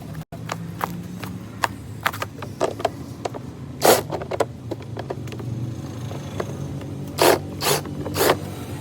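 Irregular clicks, knocks and scrapes of plastic and metal parts as a tower fan is taken apart by hand, with a few louder knocks about four seconds in and three near the end, over a steady low hum.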